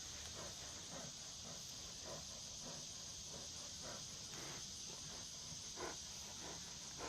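Faint, steady high-pitched chorus of insects, with scattered soft clicks and rustles.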